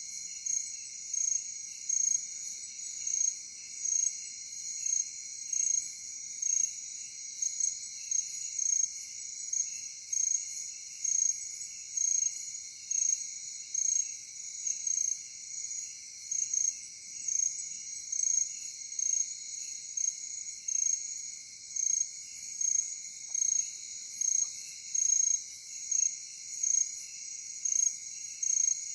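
Night insect chorus, cricket-like: a high, steady trill that swells about once a second, over a fainter, lower trill.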